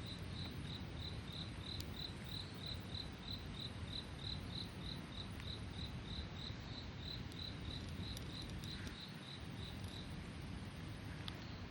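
A cricket chirping in a steady rhythm, about three short high chirps a second, stopping shortly before the end. A low steady rumble and a few faint clicks run underneath.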